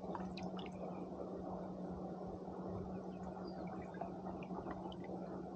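Water gently splashing and dripping around a kayak's hull, with faint small ticks and a steady low hum underneath.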